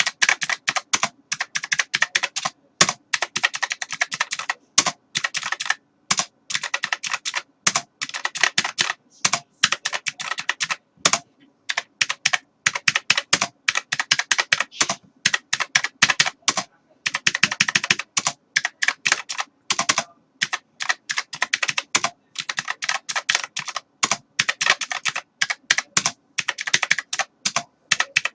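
Computer keyboard typing: rapid runs of key clicks in bursts of a few seconds, broken by short pauses.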